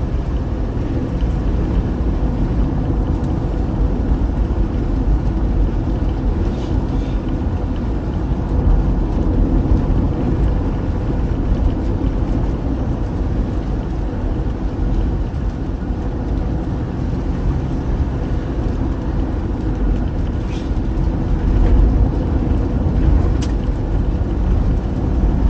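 A car driving on the road: a steady low rumble of engine and tyre noise, with a few faint clicks.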